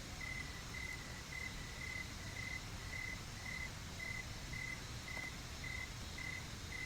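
An insect calling in short, single-pitched chirps, about two a second in an even rhythm, over a steady hiss of rain.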